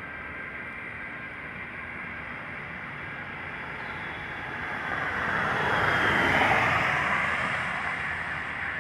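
Jet airliner's engines passing by: a steady rushing noise that builds to its loudest about six seconds in and then fades, with a faint high whine that drops slightly in pitch.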